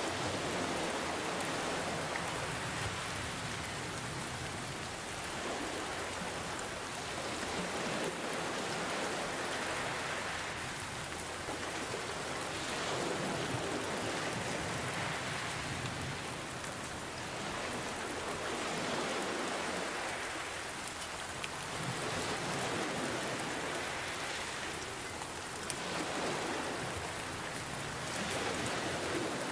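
Steady rain falling, mixed with gentle ocean waves that swell and ease off every few seconds.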